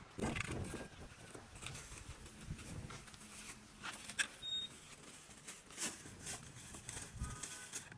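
Scattered small clicks, taps and light scraping from hands and small tools handling a phone and its parts, with a few brief faint high tones.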